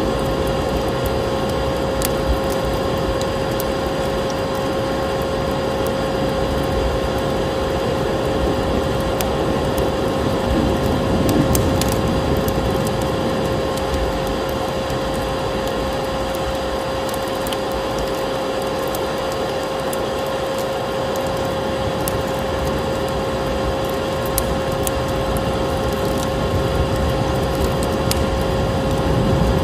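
Vacuum cleaner running steadily with a constant whine, mixed with a wood fire crackling in scattered sharp pops.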